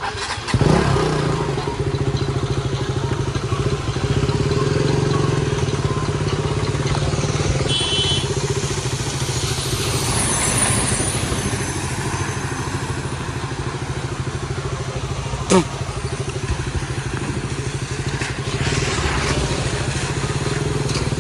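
Motorcycle engine running at a steady speed while riding, with a steady rushing noise over it. A brief high tone sounds about 8 seconds in, and there is a single sharp click about three quarters of the way through.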